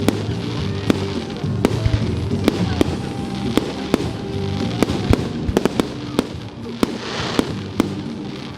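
Display fireworks going off: repeated sharp bangs at irregular intervals, a quick cluster of them a little past the middle, and a spell of crackling near the end. Music plays underneath.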